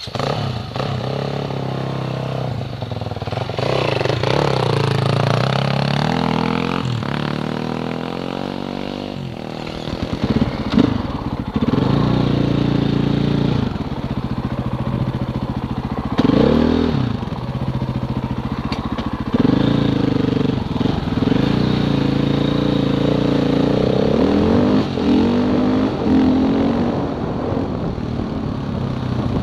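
Off-road motorcycle engine running under way on a gravel track, its note rising and falling over and over as the rider accelerates and eases off, with wind noise over it.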